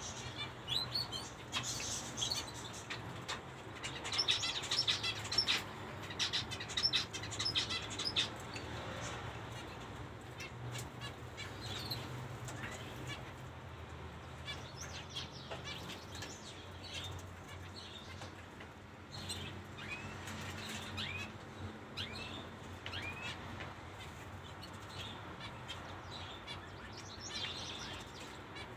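Zebra finches calling: many short, high chirps, busiest in the first eight seconds and scattered after that, over a low steady hum.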